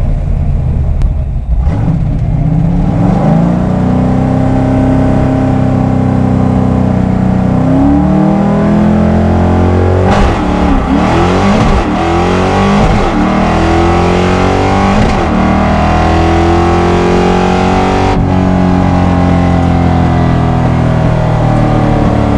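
Fox-body Mustang's 5.0 V8 at full throttle on a drag-strip pass: the engine note climbs after the launch and drops back at each automatic upshift, about 8 and 18 seconds in.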